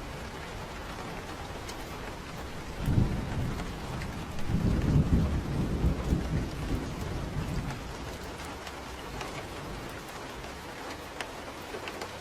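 Steady rain hissing, with thunder: a short low clap about three seconds in, then a longer rolling rumble lasting about three seconds.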